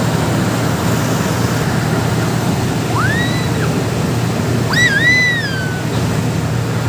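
Boat engine running steadily under a constant rush of water against the hull. Two high whistling calls cut through, a short rising one about three seconds in and a longer one about five seconds in that falls off at its end.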